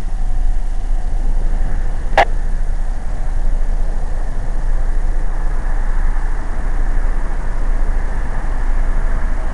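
Steady rumble and hiss of a car engine running, heard from inside the car. A single sharp radio click sounds about two seconds in.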